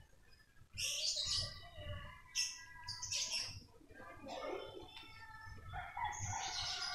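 Small birds chirping in several short bursts of high calls, some with thin held notes, over the low rumble of a walk through a lane.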